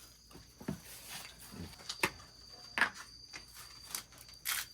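Insects chirping in a steady high-pitched drone, with scattered clicks and knocks over it, a sharp one about two seconds in and another near the end.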